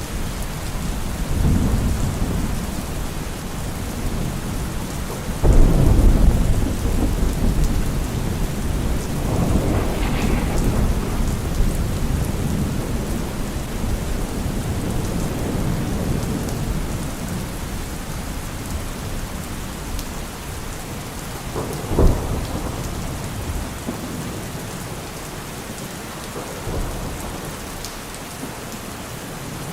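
Steady rain falling through a thunderstorm, with rolling thunder: a loud low rumble about five seconds in, more rumbling near ten seconds, a short sharp crack about two-thirds of the way through, and a faint rumble near the end.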